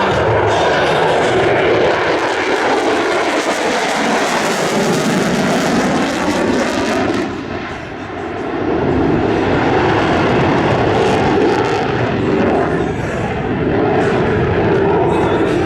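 Loud, steady aircraft engine noise from an airplane in flight, dipping briefly about eight seconds in and then building again.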